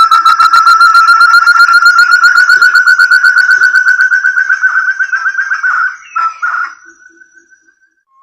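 Forest quail (burung terung) call used as a lure: a long, fast run of clear whistled notes that rises slowly in pitch, breaking off about six seconds in with a few last notes before it stops.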